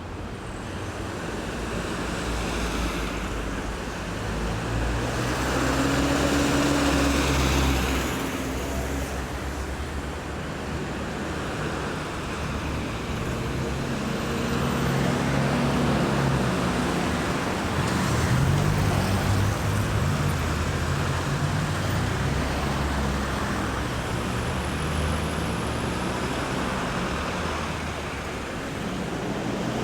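Steady night road traffic at a roundabout: vehicles passing with a continuous tyre and engine rush and a low engine hum. It swells louder twice, about seven seconds in and around eighteen seconds, as vehicles pass close.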